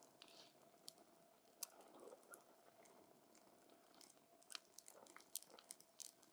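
Wood campfire crackling faintly, with scattered sharp pops and snaps that come more often in the second half.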